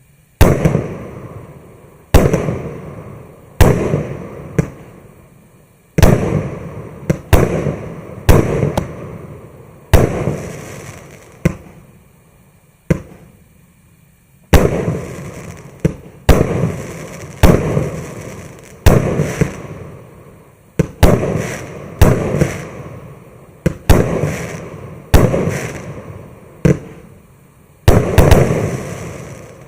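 A 19-shot, 25 mm consumer fireworks cake (Maxsem GP510) firing its shots one after another, about every one to two seconds, some in quick pairs. Each is a sharp bang followed by a fading tail of a second or so.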